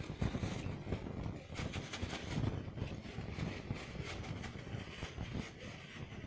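Water sloshing and swirling in a container as it is stirred to dissolve Nitrosol thickener powder, with small irregular knocks.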